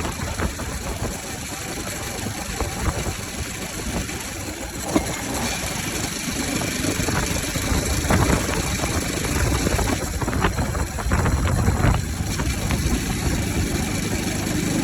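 Bajaj Pulsar RS 200 single-cylinder engine running at idle with its air filter removed, its intake open to the air. The level swells a few times in the second half.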